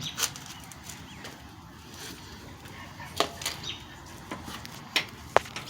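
A few scattered sharp clicks and taps over faint steady background noise.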